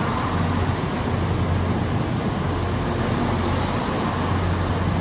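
Diesel engines of a three-car Class 170 Turbostar multiple unit running with a steady low hum.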